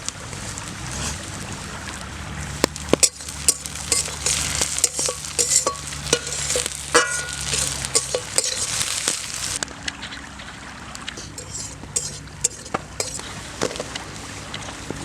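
Green chilies frying and sizzling in hot oil in a pan, while a spatula stirs and scrapes against the pan in frequent sharp clicks. The sizzle quietens somewhat about two-thirds of the way through.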